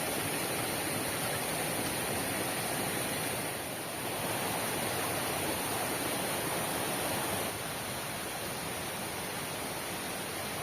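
Heavy rain falling steadily, a continuous even hiss with no distinct drops. It dips briefly a little past three seconds in and becomes slightly quieter about seven and a half seconds in.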